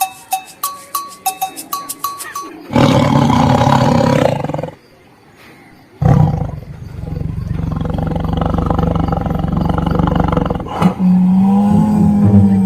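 A recorded lion roar sound effect played loudly through a portable Bluetooth speaker as a prank sound. After a ticking rhythm there are two long roars, the first about two seconds long and the second about four and a half seconds, with a short pause between them. A steady low tone comes in near the end.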